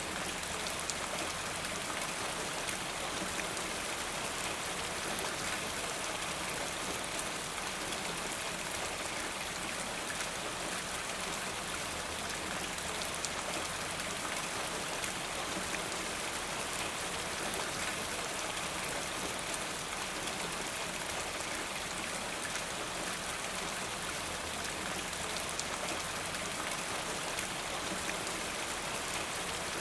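Steady rainfall, a dense even hiss of many drops with fine ticks of individual drops landing.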